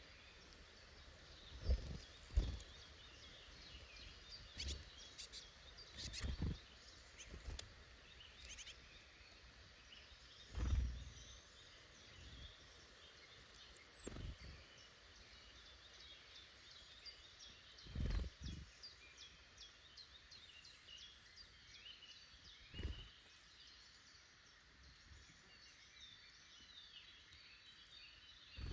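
Woodland birds singing and calling over one another, a steady mix of small songbird chirps and trills. Nine or so short dull thumps break in at irregular intervals, the loudest about two seconds in and again near the middle.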